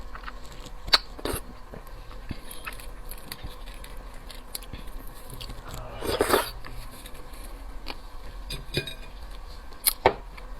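Close-miked eating of raw seafood: soft chewing and mouth sounds with a few sharp clicks, and one louder, half-second noise about six seconds in.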